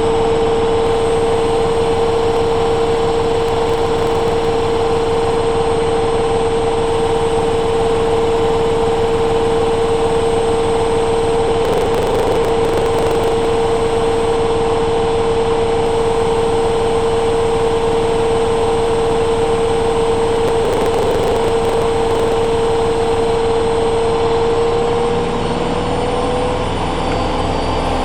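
Hoover Dynamic Next washing machine spinning at high speed, a steady high motor whine over the rush of the drum, its pitch edging up slightly near the end.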